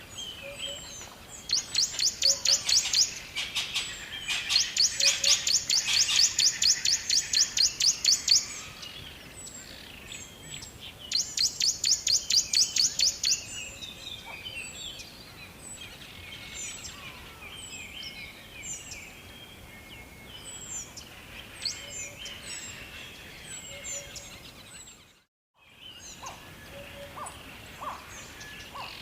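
Songbirds chirping, with bursts of high, rapidly repeated notes lasting a few seconds each and scattered short chirps between them. The sound cuts out briefly near the end.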